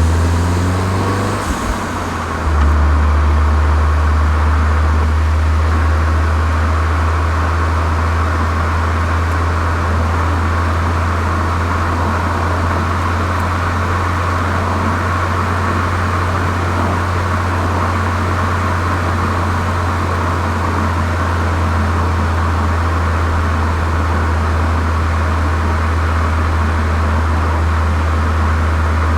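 Volkswagen Golf 7 GTI's turbocharged 2.0-litre four-cylinder engine through a Cox aftermarket exhaust, running with a steady low drone after a brief rise in revs at the start.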